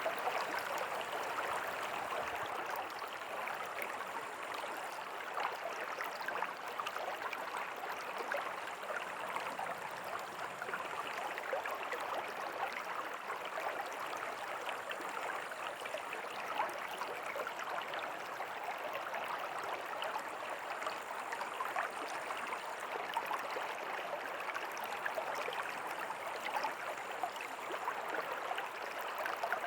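River water flowing steadily over rocks: a constant rushing and babbling.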